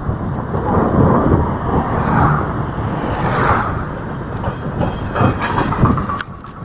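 Wind buffeting the microphone: a rough, uneven rumble that swells and eases.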